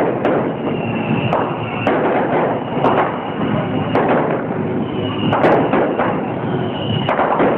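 Fireworks display: aerial shells bursting in a string of sharp bangs about a second apart, over a continuous rumble of launches and explosions.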